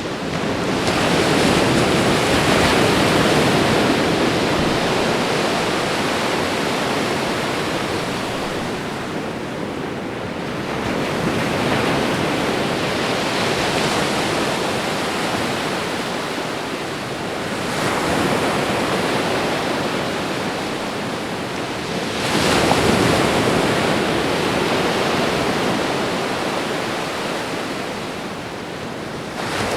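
Ocean waves breaking and washing up on a shore, a continuous rushing surf that swells four times as waves come in, each surge lasting several seconds.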